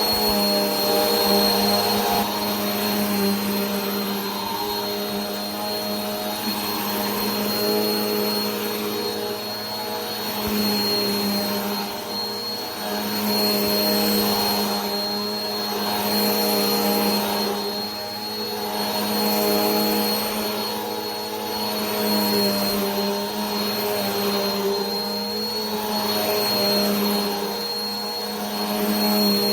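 Vacuum cleaner running continuously: a steady motor hum with a thin high whine over a rush of air, swelling and easing about every two and a half seconds.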